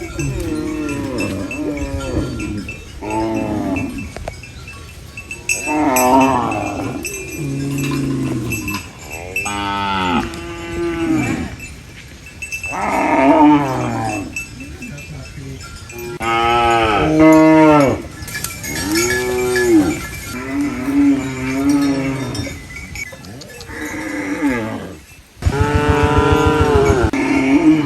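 Cattle mooing over and over: about a dozen drawn-out calls a couple of seconds apart, at different pitches and some overlapping, ending in a long low moo.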